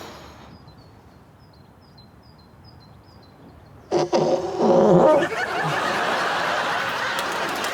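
A loud fart noise, pitched and rasping, lasting about a second and a half, a few seconds after a quiet pause. A studio audience then breaks into laughter and applause.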